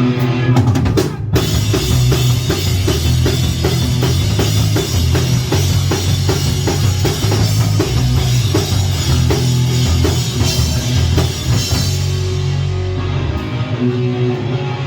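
Live rock band playing a song's instrumental intro: drum kit with fast, even hits over bass and distorted guitar, after a brief stop about a second in.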